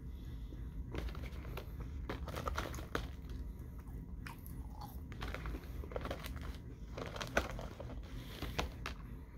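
A person chewing and crunching seasoned French fries, with irregular short, crisp crunches over a steady low hum.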